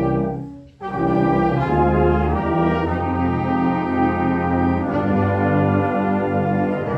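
Brass band playing slow, sustained chords. The sound breaks off for a moment less than a second in, at the end of a phrase, then a full chord comes back in and the held chords go on.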